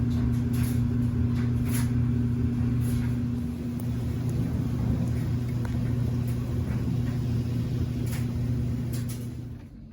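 A steady low mechanical hum with scattered light clicks over it, cutting off suddenly near the end.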